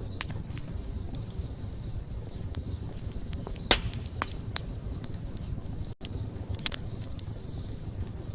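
Wood fire crackling: irregular sharp pops and snaps over a low, steady rumble of burning, with one louder pop about halfway through. The sound cuts out for an instant about two-thirds of the way in.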